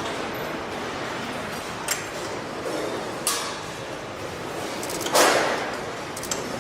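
Steady assembly-hall noise with a few sharp metallic clanks and knocks from work on the truck line, the loudest about five seconds in, ringing briefly.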